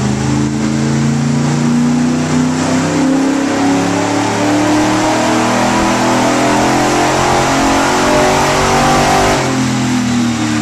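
Vintage car's engine running hard on a chassis dynamometer, its pitch climbing steadily for about nine seconds through a pull, then falling away near the end.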